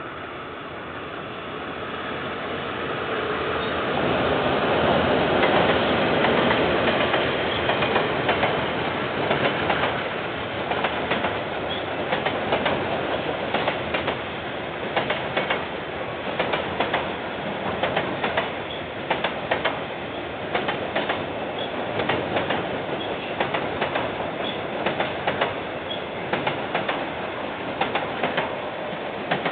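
KiwiRail train passing. Its rumble builds to its loudest about five seconds in, then the wagons' wheels keep up a long run of sharp clickety-clack over the rail joints.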